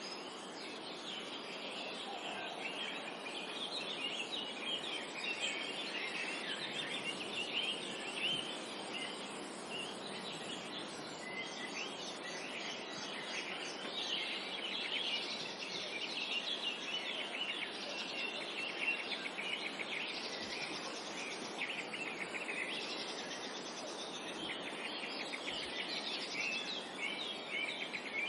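A chorus of many songbirds chirping and trilling over a steady background hiss of forest ambience, with overlapping calls busier in the second half.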